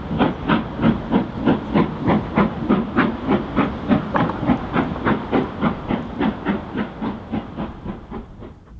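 Steam locomotive working under steam, its exhaust chuffing in an even beat of about four a second with a hiss. The beats die away over the last couple of seconds as the engine draws off.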